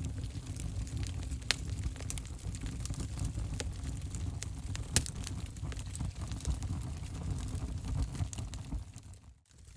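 Wood fire in a fireplace crackling: a steady low rumble of the flames with irregular sharp snaps and pops, the loudest pop about five seconds in. The sound briefly drops almost to silence near the end.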